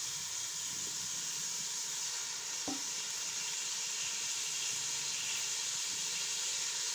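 Chicken pieces and tomato sizzling in hot oil in a metal pot as they are browned (bhuna), a steady frying hiss. A single light tap about two and a half seconds in.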